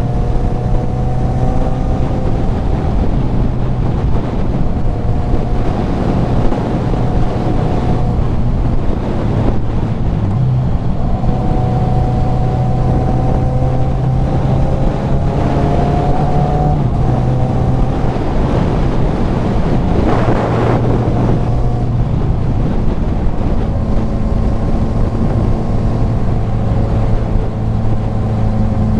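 Kawasaki Z900's inline-four engine running through a CS Racing full exhaust while riding, its steady note shifting in pitch a few times with the throttle. Heavy wind rushes over the helmet microphone.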